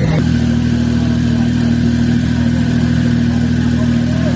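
Porsche 911 Turbo S twin-turbo flat-six idling steadily, with a thin, steady turbo whistle over the engine note. The engine note changes abruptly right at the start.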